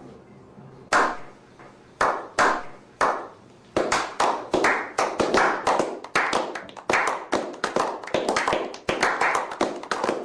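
Hand clapping that starts as a slow clap, single claps about a second apart, and after a few seconds speeds up into steady clapping.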